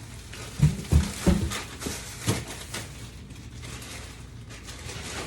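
Several dull thumps about half a second to a second and a half in, and one more a little later, as grocery items are handled and set down.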